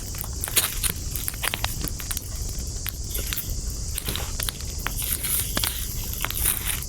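Wood campfire crackling, with frequent irregular sharp pops and snaps over a steady low rumble and hiss.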